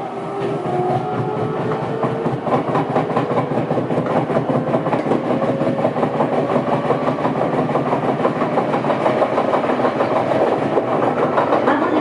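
Odakyu 2000 series electric train running and picking up speed, its traction motors whining with a rising pitch. Over this runs a rhythmic pounding from a flat spot on a wheel, which quickens as the train gains speed.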